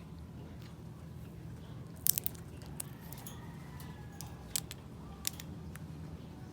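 Sun conure cracking sunflower seeds in its beak: a few sharp cracks, the loudest cluster about two seconds in, over a steady low hum.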